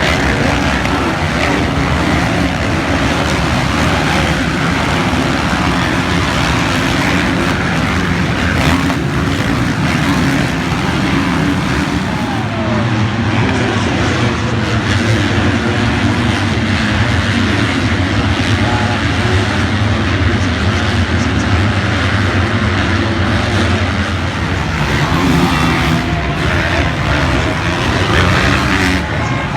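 Motocross bike engines racing in a continuous, dense drone, with revs rising and falling.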